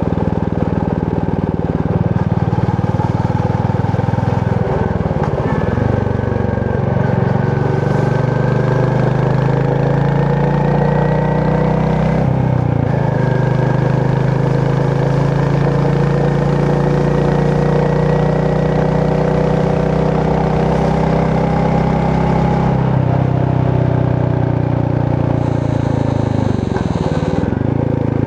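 Royal Enfield Meteor 350's single-cylinder engine and exhaust running under way. The revs dip briefly and pick back up about five seconds in, again about twelve seconds in, and once more near the end.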